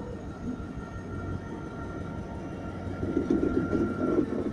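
Train running past on the rails, a steady rumble with a faint high whine, growing louder with a rattling clatter about three seconds in.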